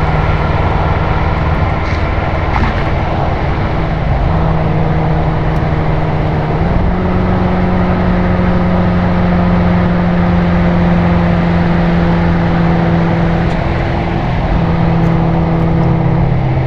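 BMW M6 Gran Coupe's twin-turbo V8 exhaust (Akrapovič Evolution Line) droning steadily at highway cruise, over tyre and wind noise. The engine note steps up slightly twice in the first half and drops a little near the end.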